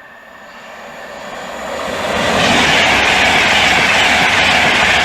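LNER Edinburgh to London express passing through the station at speed. The rush of wheels on rail and air swells over about two and a half seconds as it approaches, then holds loud and steady as the train goes by.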